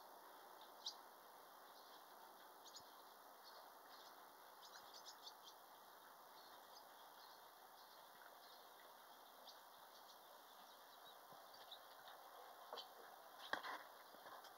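Faint water sounds with scattered short, high bird chirps, a quick run of them about five seconds in, and a light knock near the end.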